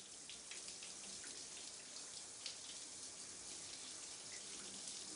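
Faint shower running: a steady hiss of spraying water with scattered droplet ticks, growing slightly louder.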